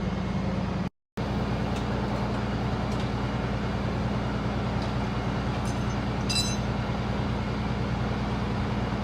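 Steady hum of a vehicle engine, holding one low pitch, with an even background of road noise. It cuts out completely for a moment about a second in, and a brief high chirp sounds about six seconds in.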